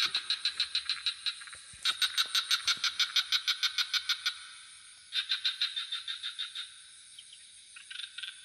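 Frogs calling in trains of rapid, evenly spaced pulses, about seven or eight a second, in three bouts with short pauses between them, over a steady high-pitched insect drone.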